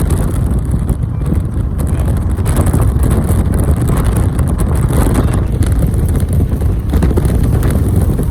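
Steady low rumble of a car on the move, mixed with wind noise on the microphone.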